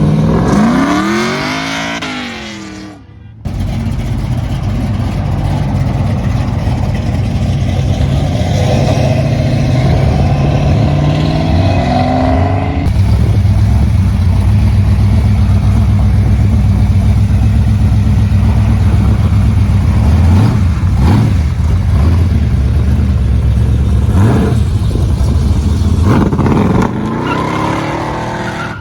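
Classic cars driving off one by one, engines loud and low. The first passes with a falling pitch and fades out. After an abrupt cut, a deep, steady engine rumble follows, revving up partway through, and another car accelerates past near the end.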